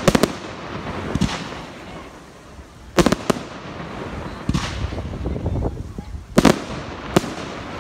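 Fireworks display: aerial shells bursting with about seven sharp bangs spaced a second or two apart, some in quick pairs, with a rumbling crackle and echo between them.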